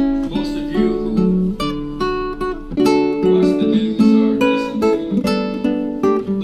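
Acoustic guitar music, strummed chords changing about every half second.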